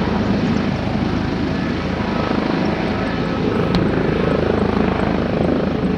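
Airbus H145 twin-turbine helicopter running steadily on the ground while holding for takeoff, its rotor and turbines making a dense, even whine and chop. A tone rises and falls in the middle, with a single sharp click about halfway through.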